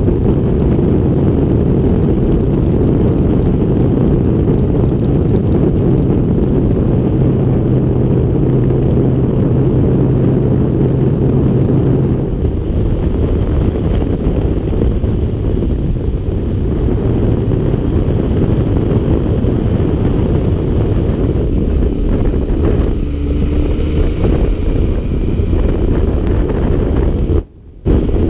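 Wind rushing over the microphone and a motorcycle running while riding, with a steady low engine note that fades out about twelve seconds in. The sound cuts out briefly near the end.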